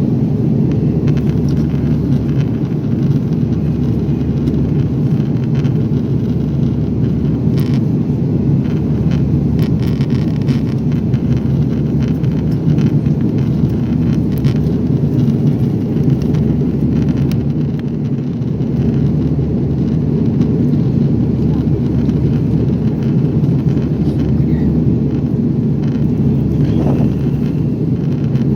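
Steady cabin noise inside an Airbus A340 airliner: an even low rumble of engines and rushing air with no change in level.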